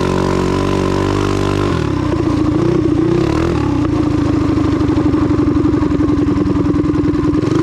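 Small mini bike engine, running on a freshly fitted Wildcat WC22 carburetor. It holds a steady speed, then about two seconds in the note drops to a lower, choppier beat and runs on that way.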